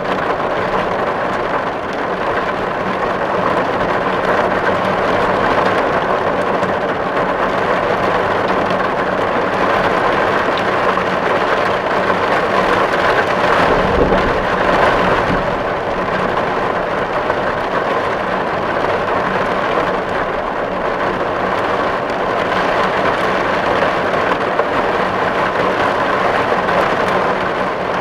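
Steady heavy rain drumming on a tin roof, a dense even patter of drops on metal. About halfway through there is a brief low swell.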